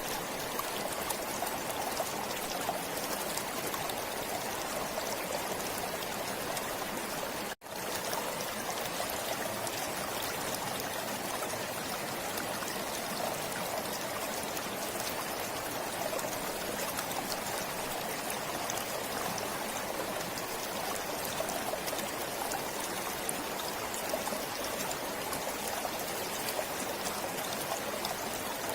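Stream water flowing steadily. The sound cuts out for a split second about a quarter of the way through, then resumes.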